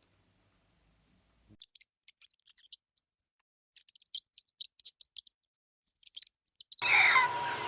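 Irregular sharp, high-pitched clicks, a dozen or more over about five seconds after a short near-silence. Near the end a louder, noisy sound with a steady tone cuts in abruptly.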